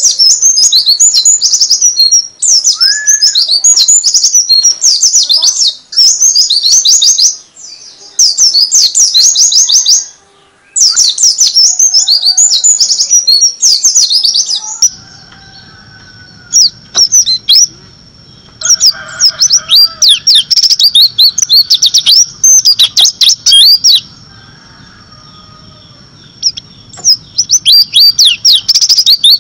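White-eye (pleci) singing its fast 'nembak' song: very rapid, high chirping trills in bursts of a few seconds with short breaks. About halfway the recording changes, and a low hum and a thin steady high tone sit under the song.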